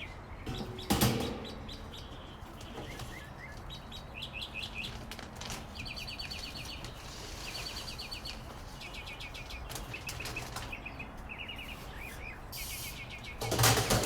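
Birds chirping in rapid strings of repeated high notes. There is a loud short thump about a second in and another near the end.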